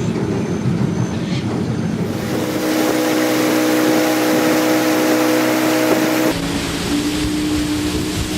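Motorboat engine running steadily under way, with the rush of wind and water over it. The sound changes abruptly about two seconds in and again near six seconds.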